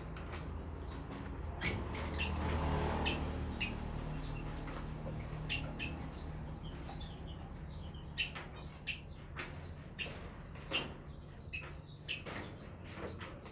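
Small caged aviary birds giving short, sharp, high-pitched chirps, scattered irregularly and overlapping, the loudest about eight seconds in.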